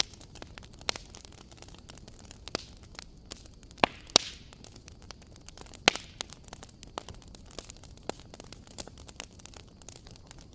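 Wood fire crackling: a steady run of small snaps and ticks over a soft hiss, with three louder pops close together a little before and after the middle.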